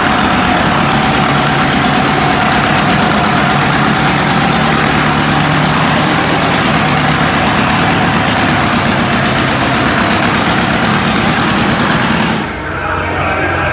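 Antique pulling tractor's engine running hard at high revs under load during a pull, a loud, steady, fast-firing engine sound. Near the end it cuts off abruptly and music begins.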